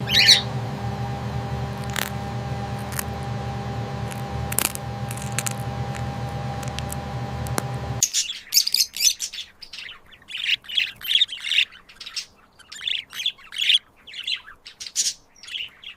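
A steady hum made of several held tones, with a few sharp clicks, cuts off suddenly about halfway through. Then cockatiels chirping in many short, high calls.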